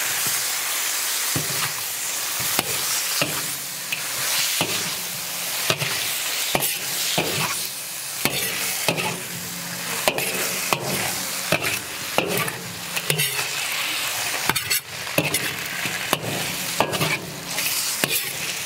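Eels frying in a hot steel wok: a steady sizzling hiss with frequent, irregular sharp taps and knocks against the metal.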